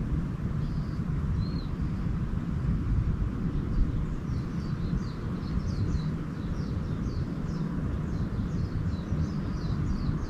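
Small birds chirping: a couple of high notes near the start, then from about four seconds in a fast run of short, high, falling chirps, several a second. Under them runs a steady low rumble.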